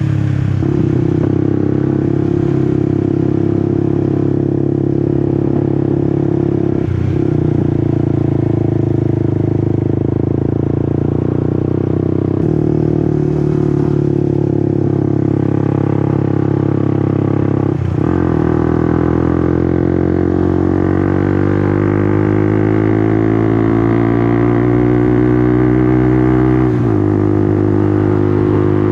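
Honda CBR150R's single-cylinder engine running under way. The note holds fairly steady for stretches, with a few short breaks where the pitch steps down as it shifts gear. Near the end it climbs slowly in pitch as the bike accelerates, then drops.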